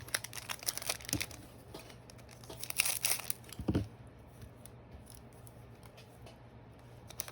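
Foil trading card pack wrapper being torn open and crinkled, a crackling rustle in two busy stretches within the first four seconds, then fainter handling.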